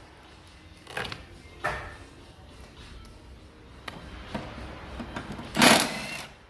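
Hand tools and metal parts clicking and clanking while engine-bay components are stripped off, with a louder half-second clatter near the end.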